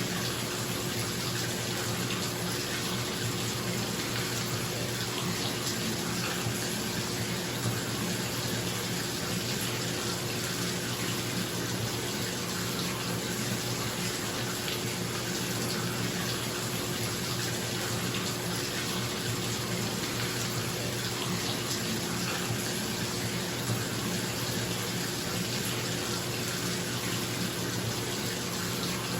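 Bathtub faucet running steadily into the tub, a continuous even rush of water, with a bathroom exhaust fan humming underneath.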